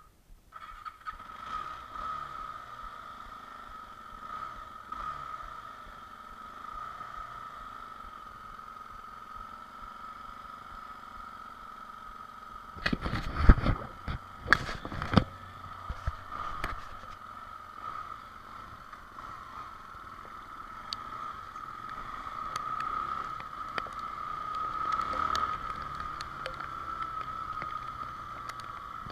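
Honda XR Tornado motorcycle running, with a steady high whine over even road and wind noise and a cluster of loud knocks about halfway through.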